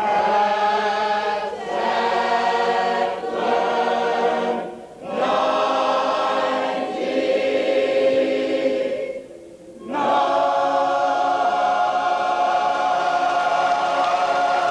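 A group of voices singing in chorus, in short phrases with brief breaks, then a long held final chord over the last part.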